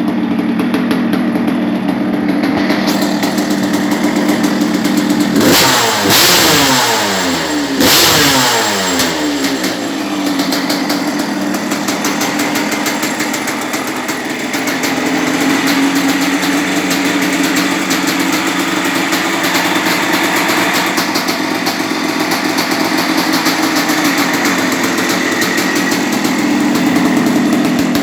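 Suzuki RM250's two-stroke single-cylinder engine idling, freshly rebuilt with a new piston and rings. It is blipped twice, about six and eight seconds in, rising quickly and falling back to idle each time, then runs steadily again.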